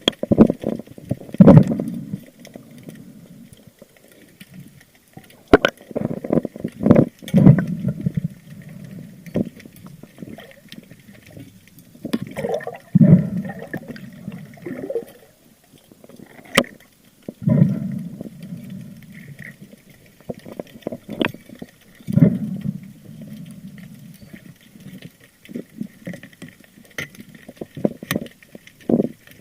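Seawater sloshing and gurgling around a camera at the sea surface during a spearfishing dive, in surges every five seconds or so, with sharp clicks and knocks in between.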